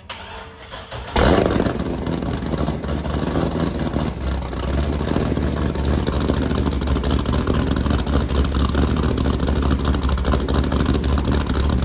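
Car engine cold start: after about a second of faint cranking it catches with a sudden loud flare, then settles into a steady high idle.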